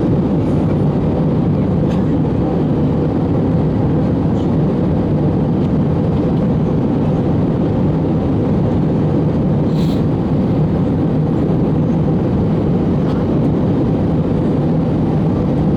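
Steady cabin noise of an Airbus A321 in flight, a constant low rush of jet engines and airflow heard from a passenger seat. A faint click comes about ten seconds in.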